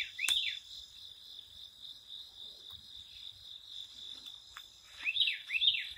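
Steady high-pitched trilling of insects, likely crickets, with a bird giving a run of short arched chirps just after the start and again near the end.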